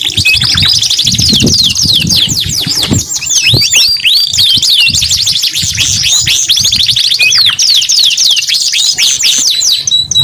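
Domestic canaries singing in fast rolling trills: long runs of rapid, repeated down-slurred notes, some rising, with a few low thuds underneath.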